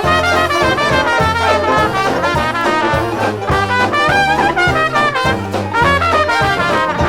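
Dixieland jazz band playing in full ensemble: trumpet and trombone lines over a steady bass beat.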